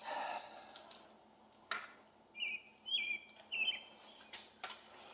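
A small bird chirping three times in quick succession, each call a short high note that drops a step in pitch. A couple of sharp metallic clinks of tools sound in between.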